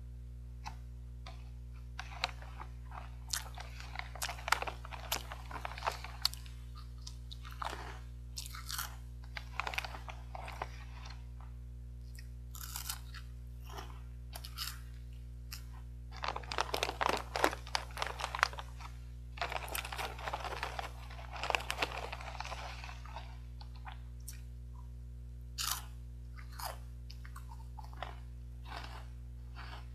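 Crunchy caramel-coated corn puffs and peanuts being bitten and chewed, crisp crackling crunches coming in clusters with pauses between, heaviest in the second half. A steady low hum runs underneath.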